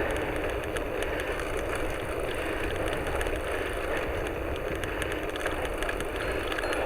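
Bicycle being ridden along a road: steady tyre and road noise, with scattered light clicks and rattles.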